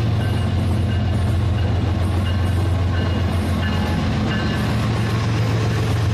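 Rail King battery-powered toy train running steadily with a continuous motor hum, and short high notes of a tune playing over it.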